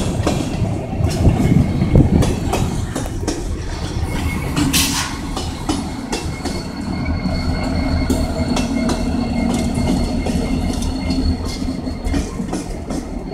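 Freight train of gondola cars rolling past, wheels clacking over rail joints. About halfway through, a Kansas City Southern de México diesel locomotive passes, and a steady engine hum with a thin high whine sits under the rolling noise.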